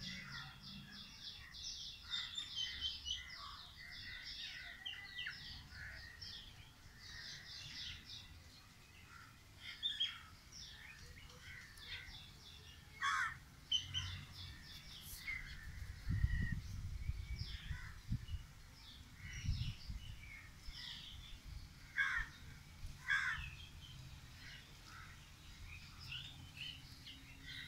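Several birds calling and chirping in quick repeated notes throughout, with a low rumble from about 16 to 20 seconds in.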